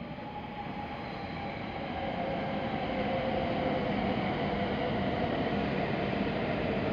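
Hokuriku Shinkansen train pulling into the station platform. Its running rumble and a steady whine grow louder over the first few seconds as the cars slide past, then hold.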